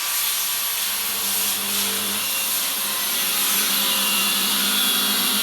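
Construction power tool cutting, a steady harsh noise with a faint whine underneath.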